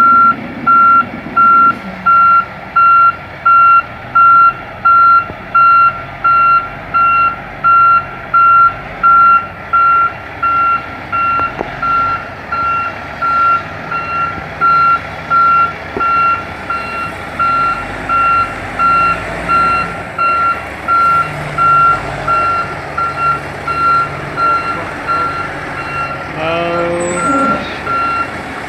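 Heavy truck's reversing alarm beeping steadily, about once every three-quarters of a second, over a diesel engine running; the beeps grow fainter in the second half. A short rising sound near the end.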